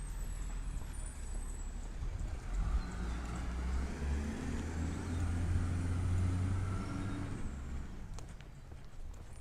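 Peterbilt 320 automated side-loader garbage truck running. Its engine swells for several seconds in the middle, with a faint high whine rising and falling along with it, then eases off near the end.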